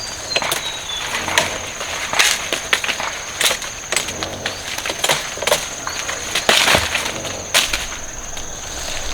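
Irregular cracking and rustling of plant stalks and leaves being handled, over a steady high-pitched insect drone.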